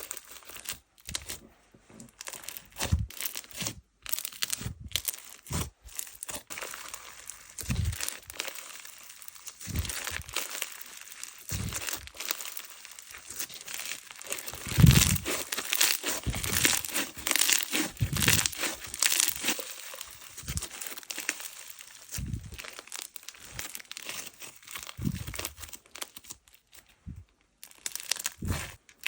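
Slime being squished, stretched and poked by hand, making irregular crackling, crinkling and popping sounds, with a louder stretch of play about halfway through.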